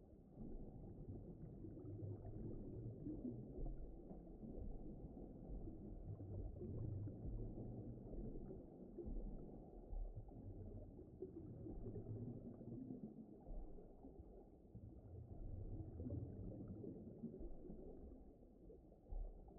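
Low, muffled underwater ambience: a soft rumbling wash with no high sounds, slowly swelling and easing.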